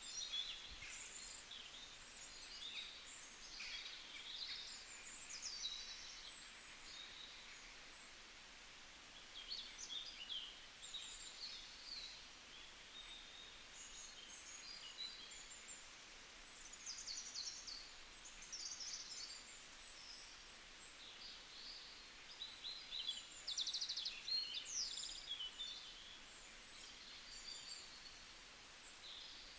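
Several small birds chirping and trilling in a bamboo forest, short high calls overlapping over a faint steady hiss, with a brief lull now and then.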